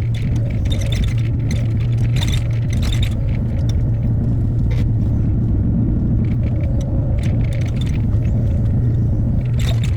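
Hyundai HX60A mini excavator's diesel engine running at a steady drone while working, with short knocks and scrapes from the bucket and tilt-rotator now and then.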